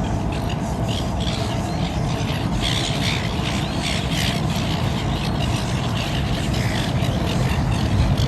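Small birds chirping over a loud, steady low rumble.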